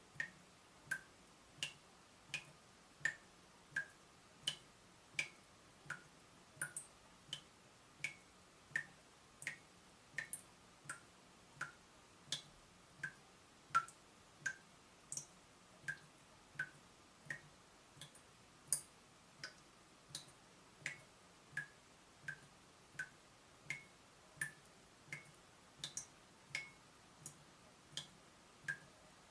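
Water dripping from a leaking tap, one drop about every 0.7 seconds, each landing with a short plink whose pitch changes a little from drop to drop.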